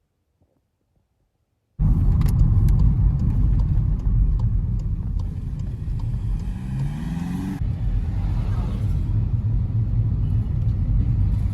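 Car on the move: a loud, low rumble of engine and road noise that starts suddenly about two seconds in, with the engine pitch rising briefly a little past halfway.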